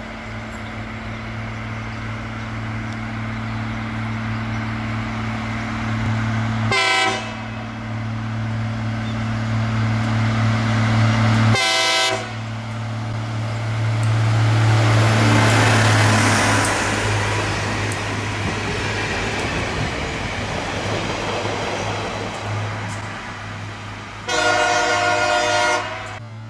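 Diesel locomotive passing a level crossing, sounding its horn three times: two short blasts about 7 and 12 seconds in, and a longer one near the end. The engine and wheel noise swell to their loudest midway as the train goes by.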